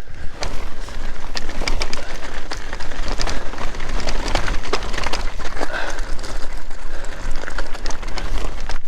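Mountain bike riding down a rough forest trail: tyres crunching over dirt and roots, with rapid rattles and knocks from the bike over a low rumble.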